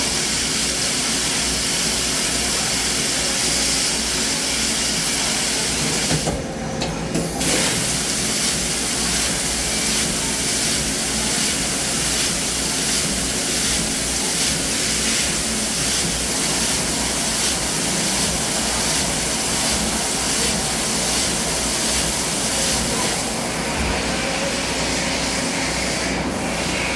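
CNC machine running with a steady, loud hiss over a low hum. The hiss drops out briefly about seven seconds in and again near the end.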